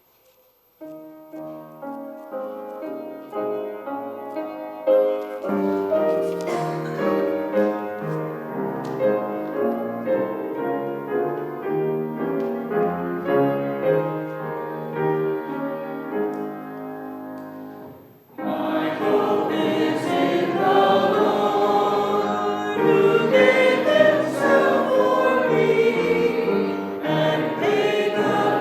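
A keyboard plays the hymn's introduction in slow, sustained chords. A little after halfway the congregation comes in, singing the hymn together with the accompaniment.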